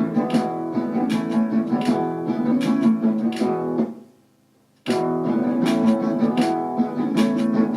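Guitar strummed in a steady rhythm of chords. It fades out about four seconds in, and after nearly a second of near silence it starts again abruptly at full level.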